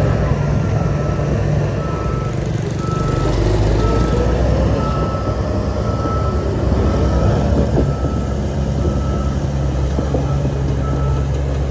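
Reversing alarm on a heavy construction machine beeping steadily, about three beeps every two seconds, over the low, steady running of a diesel engine: the machine is backing up.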